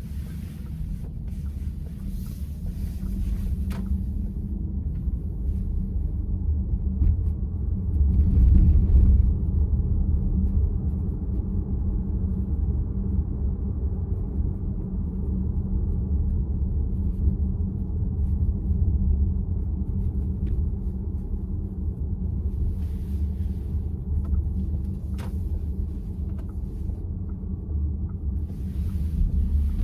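Road and tyre rumble inside the cabin of a moving VW ID.4 electric SUV, steady and low, swelling briefly about eight seconds in, with a couple of faint clicks.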